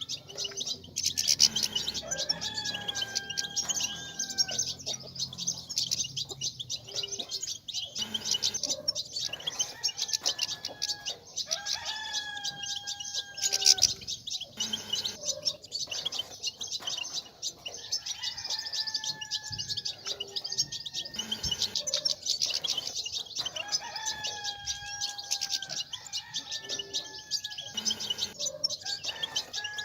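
European goldfinches twittering in a dense, fast, high-pitched chatter, the 'bitbita' chatter played to stir cage males into song. Every few seconds a lower, drawn-out call sounds beneath it, dipping at its end.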